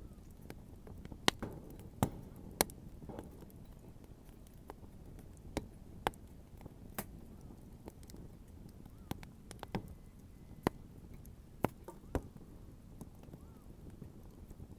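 Wood bonfire crackling: about a dozen sharp, irregular pops and snaps of burning wood, the loudest in the first few seconds, over a low steady rumble from the fire.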